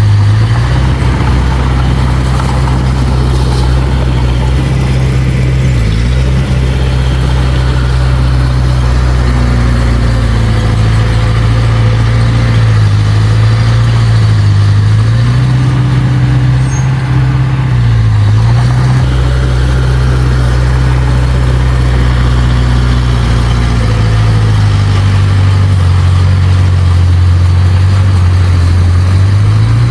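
Small bulldozer's diesel engine running steadily under work. Its low hum sags in pitch now and then as the load comes on, then recovers.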